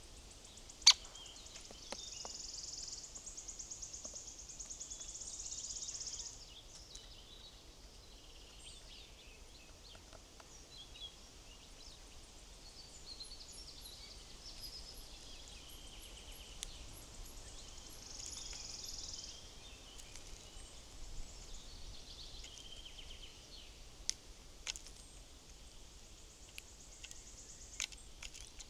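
Small woodland birds singing and calling: two high, rapid trilling phrases, one lasting a few seconds early on and a shorter one later, plus thin high chips in between. A sharp tap about a second in is the loudest sound, with a few fainter taps near the end.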